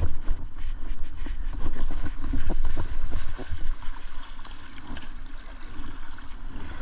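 Rushing river water around a kayak, with a deep rumble and several short splashes and knocks, mostly in the first half, easing off a little toward the end.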